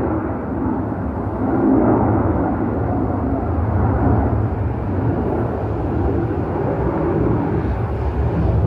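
Steady, loud jet roar from three F-22 Raptors flying over in formation, their twin turbofan engines giving a deep rumble that swells and eases a little in level.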